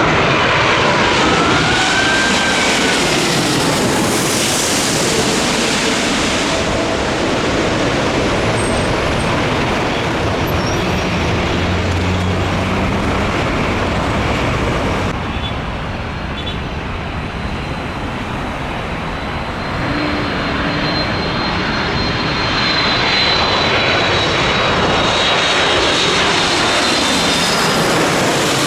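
Jet engine noise of wide-body airliners landing close by. An Airbus A380 runs loud for the first half, then after an abrupt cut about halfway a Boeing 767-300 approaches and grows louder towards the end.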